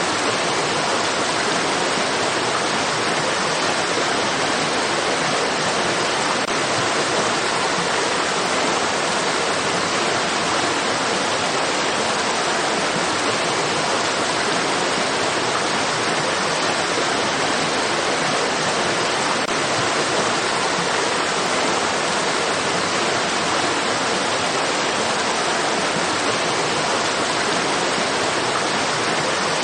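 Flowing stream water, a steady rushing with no breaks or changes.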